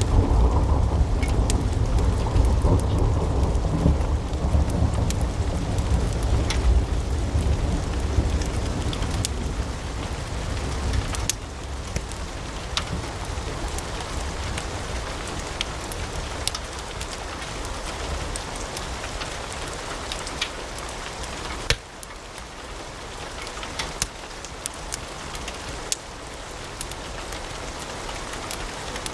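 Wood fire in a fireplace crackling, with scattered sharp pops over a low rumble. The rumble is heavier for the first ten seconds or so, then eases off. One louder pop comes a little past the twenty-second mark.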